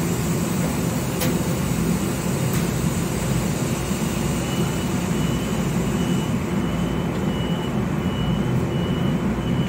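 Metro-North electric commuter train standing at the platform with its doors open, its equipment giving a steady loud hum. From about halfway through, a faint high beep repeats about twice a second.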